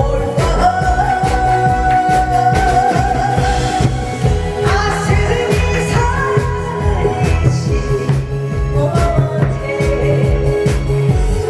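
A voice singing long held notes over loud amplified backing music with a steady drum beat.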